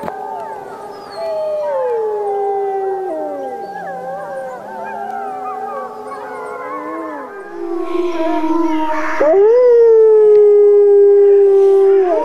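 A pack of wolves howling in chorus: several long howls overlap at different pitches, some sliding down and back up. About nine seconds in, a louder howl rises and then holds steady.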